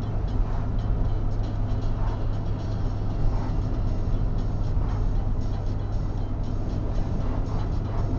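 Steady low drone of a car driving on a highway, with road and engine noise, heard from inside the car.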